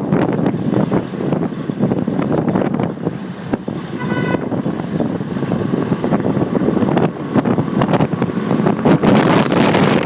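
Engine and road noise of a riding motorcycle, with wind buffeting the phone's microphone. A brief vehicle horn toot sounds about four seconds in.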